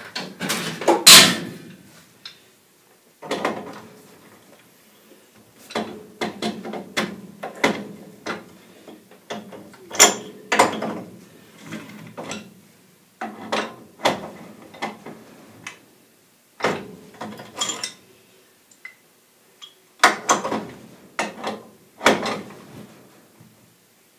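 Spud wrench tightening a gas valve onto a threaded pipe: repeated bursts of metal clanking and scraping with short pauses between them, the loudest about a second in.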